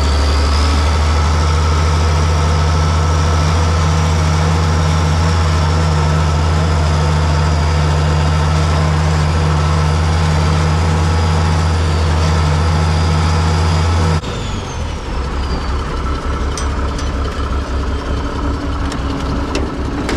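Farm tractor engine running steadily at a constant speed. About two-thirds of the way through, the sound changes abruptly to a lower, rougher engine note, with a few sharp clicks near the end.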